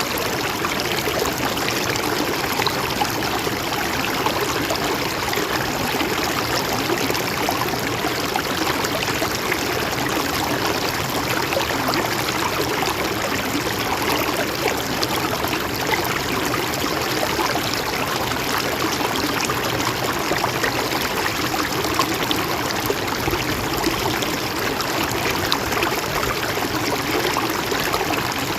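Mountain stream running steadily, an even, unbroken rush and trickle of water.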